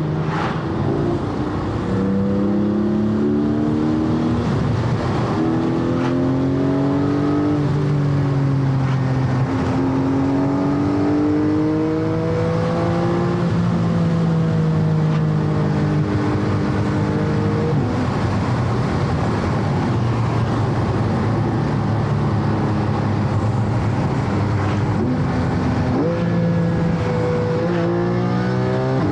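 Porsche Cayman GT4's naturally aspirated flat-six engine run at different engine speeds. Its pitch climbs and falls several times and holds steady for stretches, drops sharply about two-thirds of the way through, then climbs again near the end.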